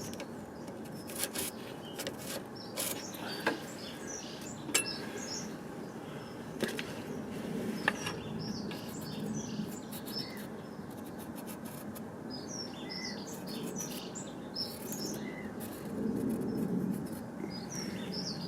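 Small birds chirping on and off in the background over a low steady hum, with a few sharp clicks and taps from handling.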